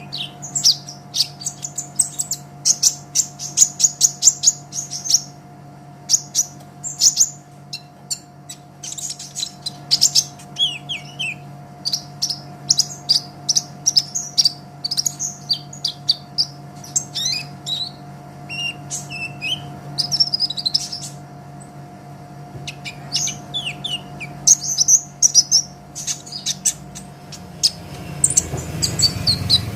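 Kolibri ninja (konin) sunbird singing: rapid high-pitched chirps and twittering trills in quick runs, with short pauses between phrases. A steady faint hum runs underneath, and a low rumble rises near the end.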